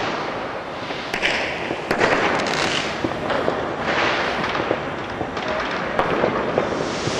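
Many fireworks and firecrackers going off at once: a continuous din of crackling with frequent sharp bangs.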